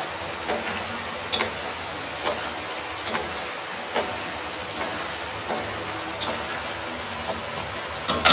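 Sweet potato chunks coated in caramelized sugar deep-frying in hot oil in a stainless steel wok, giving a steady crackling fizz. Light knocks of a wooden spatula against the wok come roughly once a second as the pieces are stirred.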